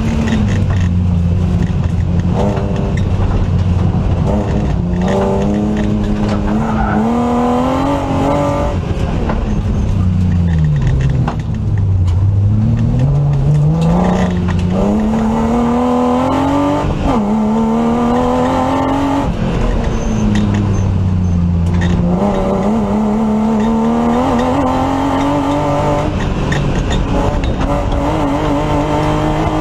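BMW E36 328 rally car's straight-six engine under hard driving, heard inside the cabin: revs climb in steps through the gears, fall away about ten seconds in as the car slows, then climb again in a long pull.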